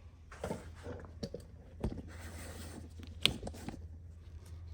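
Faint handling noises: scattered light taps and clicks, a short scraping stretch about two seconds in, and one sharp click a little after three seconds, over a steady low hum.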